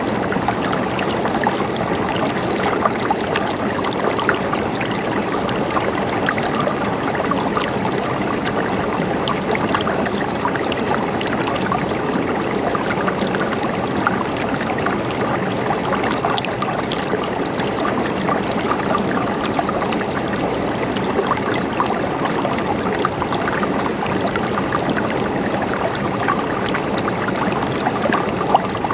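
A small stream running steadily, water trickling and splashing over stones.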